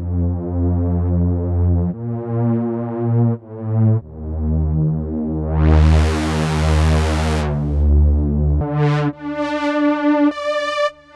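Sequential Prophet-5 Rev4 analog polyphonic synthesizer playing a series of held chords. Midway a bright, hissy swell rises and falls over the chord, and about nine seconds in the sound changes to a brighter, thinner tone with a wavering pitch.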